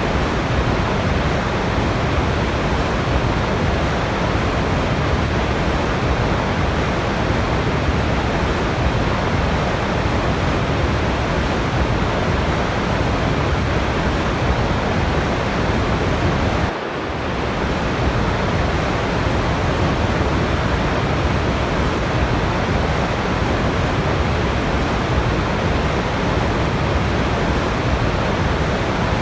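Waterfall rushing: a dense, even, continuous noise of falling water with no changes in character, broken only by a brief dip in level a little past halfway.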